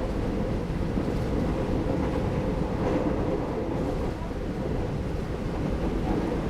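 Steady low rumble of an Indonesian-built KRL electric commuter train running along the track, heard from inside the carriage.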